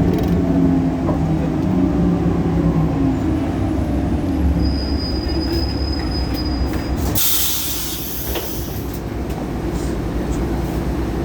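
Solaris Urbino 18 articulated bus's DAF Paccar PR265 diesel engine running under way, with loud belt noise and a thin high whine a few seconds in. A short loud hiss about seven seconds in, after which the engine sound drops.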